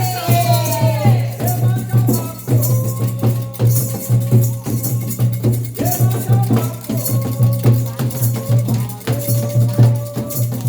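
Candomblé ceremonial music: voices singing a chant over percussion, with a shaken rattle keeping a steady, busy beat.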